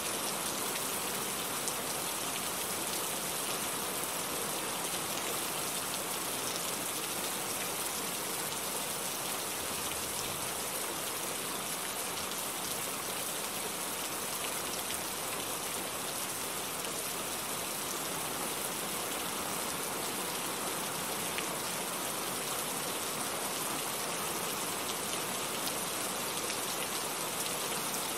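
Heavy rain falling steadily, a dense even hiss of many drops striking a surface.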